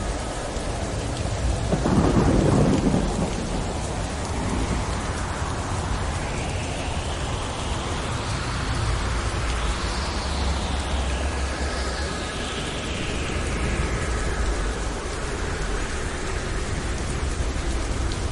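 Steady heavy rain with a rumble of thunder swelling about two seconds in.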